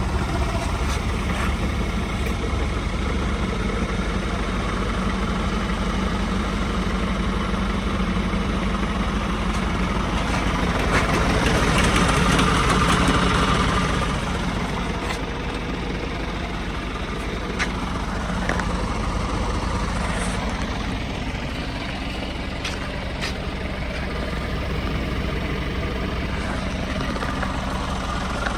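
Scania R450 truck's 13-litre inline-six diesel idling steadily, with a louder hiss for about three seconds near the middle and a few light clicks later on.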